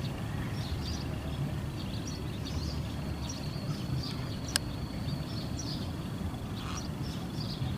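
Open-field ambience: a steady low rumble, a thin steady high tone, and scattered short bird chirps, with one sharp click about four and a half seconds in.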